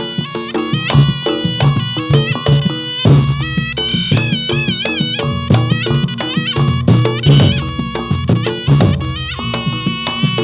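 Reog Ponorogo ensemble music for jathilan dance: a slompret (Javanese shawm) plays a reedy melody, warbling in a fast trill about four seconds in, over a steady beat of kendang drums.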